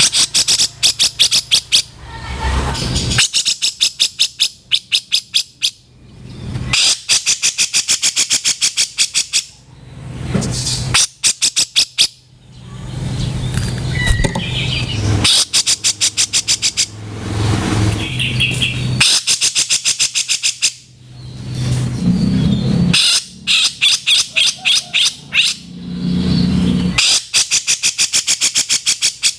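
Cucak jenggot (grey-cheeked bulbul) giving its harsh 'kasaran' rattling call: bouts of rapid scratchy notes, about ten a second, each lasting a couple of seconds and repeated after short breaks.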